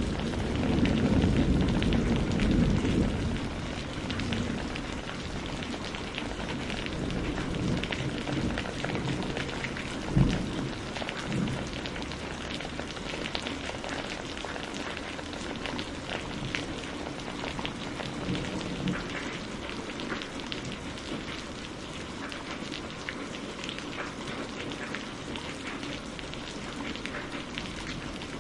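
Steady rain falling, with many fine drop patters. A low thunder rumble fades out over the first few seconds, and a single sharp low thud comes about ten seconds in.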